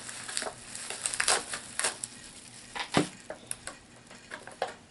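Plastic miniature figures and their booster packaging being handled: crinkling, with scattered sharp clicks of plastic pieces. The loudest click comes about three seconds in.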